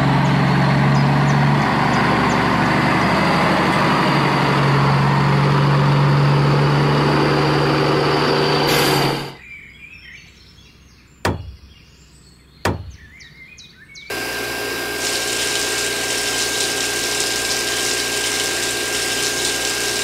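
Small electric water pump on a toy fire truck running with a steady hum and rushing noise, cutting off suddenly about nine seconds in. Two sharp clicks follow in the quiet, then a small electric motor starts and runs with a steady hum as the toy truck drives.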